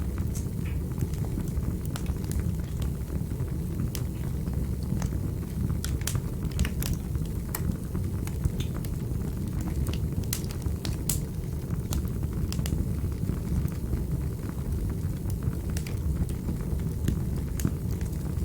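Fire burning in a fireplace: a steady low rumble of flames with scattered sharp crackles and pops, busiest in the middle.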